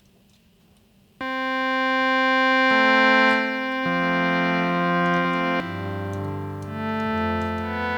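Synthesizer tones from the Autumn SuperCollider engine on a monome norns, starting abruptly about a second in as sustained, overlapping notes that shift in pitch every second or so.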